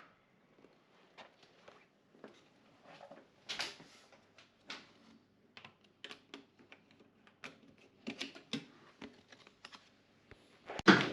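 Scattered light clicks and taps at an irregular pace, some a little louder than others, with a small-room sound.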